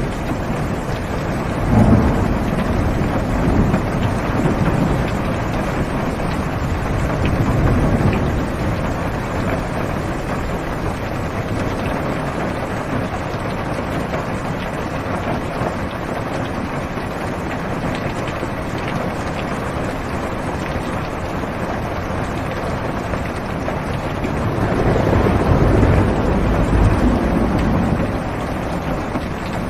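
Heavy rain beating steadily on a car's roof and windows, heard from inside the car, with thunder rumbling about two seconds in and again near the end.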